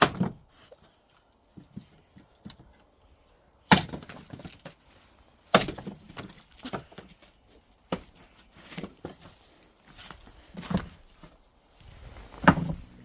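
Firewood being split with an axe: about five heavy strikes a couple of seconds apart, each a sharp crack of splitting wood, with lighter knocks and splintering between them.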